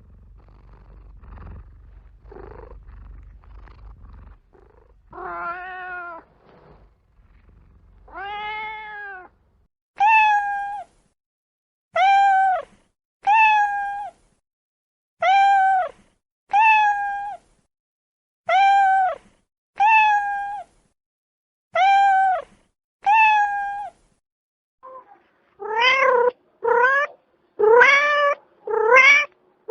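A domestic cat meowing. After a few seconds of faint low rumble come two long meows, then a run of short meows evenly spaced at roughly one a second, and near the end quicker, louder meows that rise in pitch.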